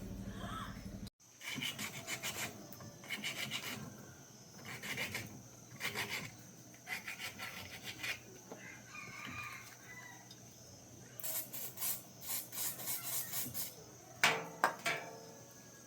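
Repeated hand rubbing or rasping strokes on a hard surface, in short bursts of several quick strokes with pauses between them and a denser run near the end. A rooster crows briefly just before the end.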